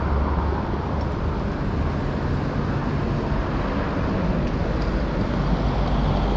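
Steady road traffic passing on a city street: a continuous wash of vehicle engines and tyres.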